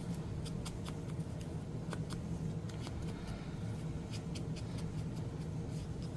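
Paper crafting handling noises: irregular light clicks, taps and rustles of paper pieces being picked up and placed on a work surface, over a steady low hum.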